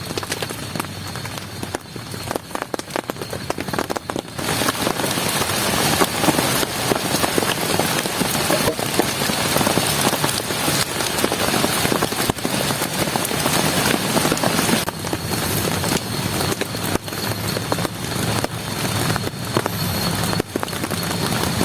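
Heavy rain falling, a dense patter of close drop hits that grows heavier about four seconds in.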